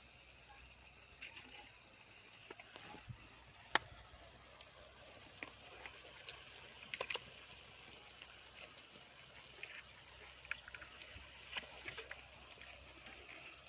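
Faint outdoor background hiss with scattered small clicks and taps; one sharper click about four seconds in.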